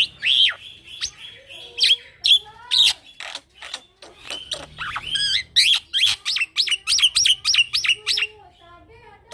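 Young male black-winged myna (jalak putih) singing loudly and continuously: sharp whistles and chattering notes, then from about five seconds in a fast rolling run of repeated notes, about four a second, that breaks off a little after eight seconds.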